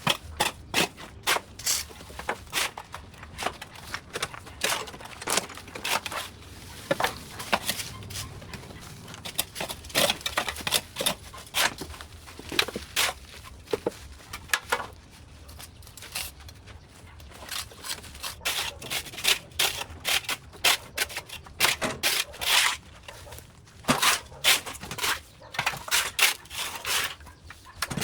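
Dry vines and brush being pulled and broken away: a long run of irregular sharp snaps, crackles and scrapes.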